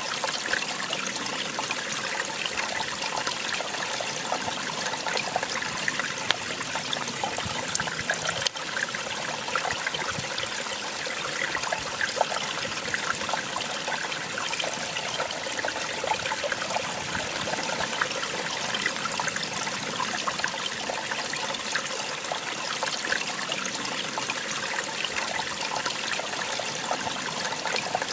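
Small waterfall splashing and trickling steadily, with one sharp click about eight seconds in.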